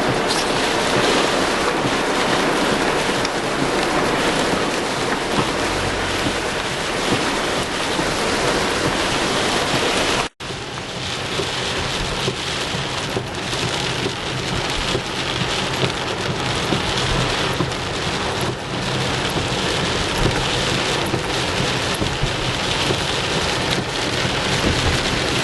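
Steady heavy rain hissing and pattering, with a low steady hum of a vehicle's engine and road noise underneath. The sound drops out for an instant about ten seconds in.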